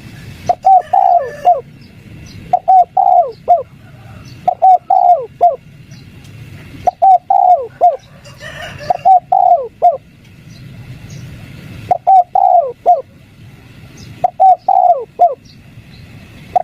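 Spotted dove cooing in repeated short three-note 'kuk 3' phrases, a phrase every one to two seconds, the notes gliding down at their ends.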